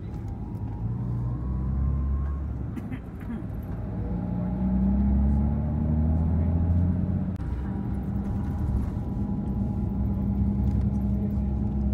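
Tour coach's engine and road noise heard from inside the bus: a steady low drone whose pitch rises slightly a few seconds in, then holds.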